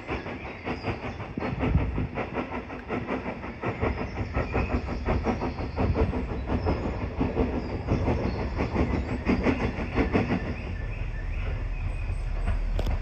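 A train running by with a rapid rhythmic beat that gives way to a steadier low rumble near the end.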